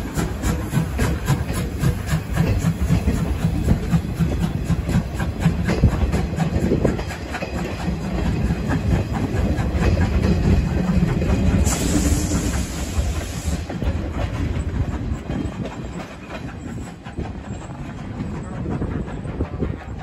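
Passenger coaches behind the C12 steam locomotive rolling past, their wheels clicking rapidly and steadily over the rail joints. About twelve seconds in, a burst of steam hisses for under two seconds. The sound then eases as the train draws away.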